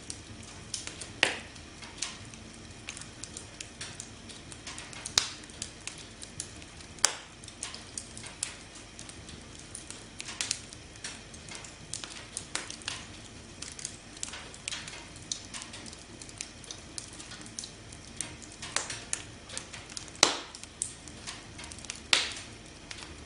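Campfire burning with a steady low hiss and irregular crackles and pops, a few of them sharp and loud.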